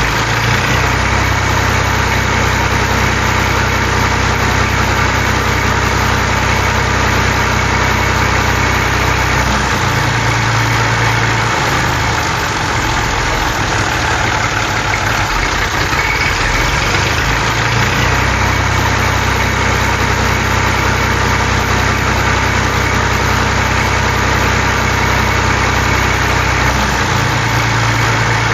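Tractor engine idling steadily with a low, even rumble. Its pattern repeats about every 17 seconds, like a looped engine sound.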